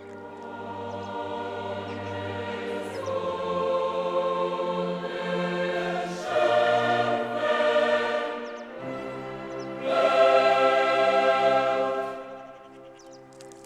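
Background choral music: a choir singing long held chords that swell louder about six and ten seconds in, then fade near the end.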